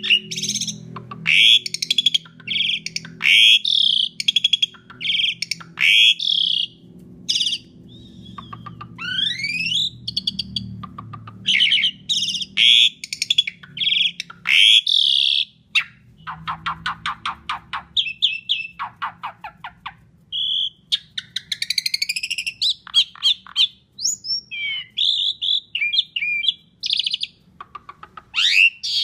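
Pied starling (jalak suren) singing loudly and without pause: a varied run of whistles, rising glides and harsh notes, with fast rattling trills around the middle.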